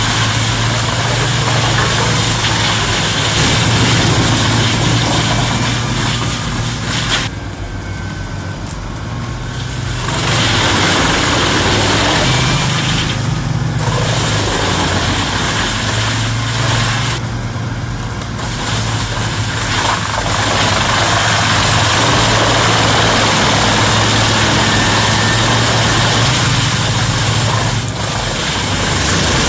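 Bruks 1006 PT wood chipper, driven by a 750 hp Volvo engine, running under load while chipping wood: a steady low engine hum beneath a dense chipping noise that eases off briefly three times.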